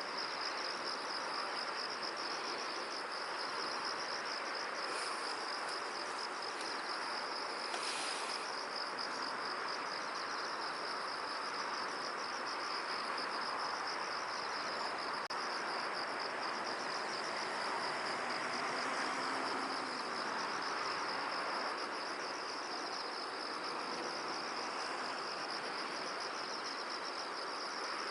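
Insects trilling continuously, a high, finely pulsing chorus that holds steady, over an even rushing background of wind.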